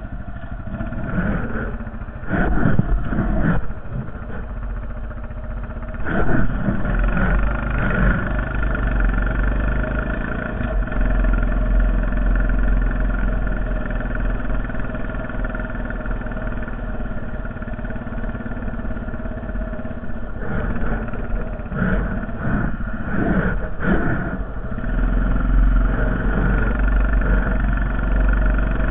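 Honda Foreman 450 ES ATV's single-cylinder engine running under load while pushing a snow plow, its pitch shifting now and then, with clusters of clattering knocks a couple of seconds in, at about six seconds and again around twenty seconds in.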